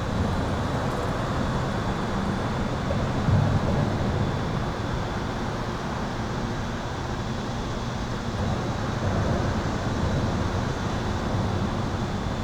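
Highway traffic heard from under an overpass: a steady wash of tyre and engine noise. Above it runs a thin, steady high-pitched electrical hum.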